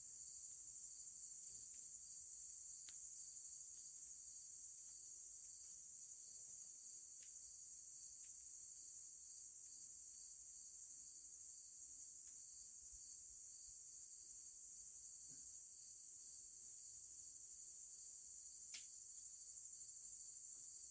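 Crickets chirping in a continuous high-pitched trill, with a single faint click near the end.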